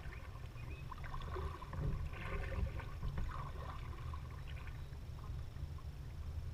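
Water lapping and light splashing around a kayak, with soft bursts of splashing about two seconds in, over a steady low rumble.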